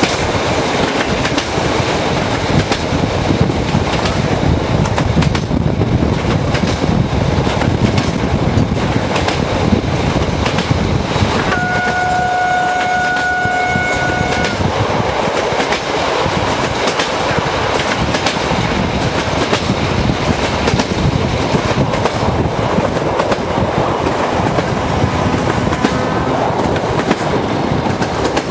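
A moving train's wheels rumbling and clattering over rail joints, the clickety-clack of the ride. About eleven seconds in, a locomotive horn sounds one steady note for about three seconds.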